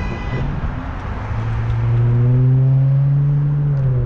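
A vehicle horn held in one long blast of about three seconds, starting about a second in and rising slightly in pitch, over steady wind noise on the microphone.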